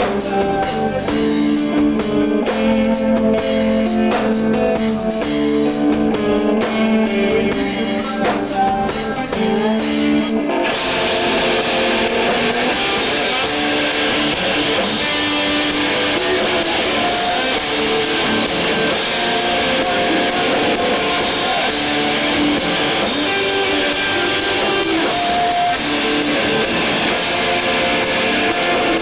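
Live rock band playing: an electric guitar picks a ringing melodic figure over light drums, then about ten seconds in the full band comes in loud, with distorted guitars and cymbals.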